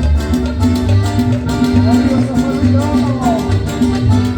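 A Latin dance band playing live, an instrumental passage with a pulsing bass line and a steady dance beat.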